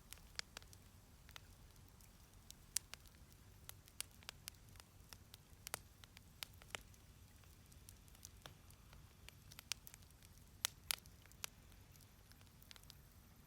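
Wood fire crackling in a fire pit: faint, irregular sharp pops and snaps, the loudest about three seconds in and near eleven seconds, over a low rumble.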